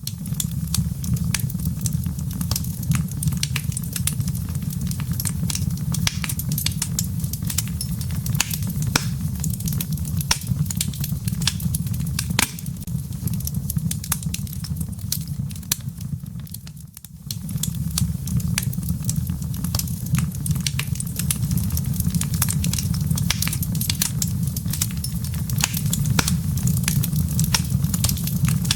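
Wood fire in a fireplace crackling, with dense irregular pops and snaps over a steady low rumble. The sound dips briefly about two-thirds of the way through, then picks up again.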